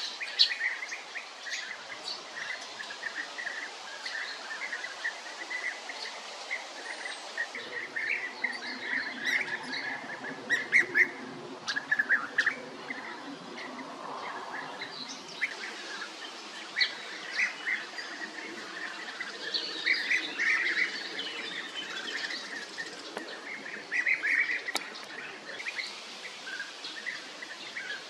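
European bee-eaters calling: many short calls, repeated and overlapping throughout, as from several birds together.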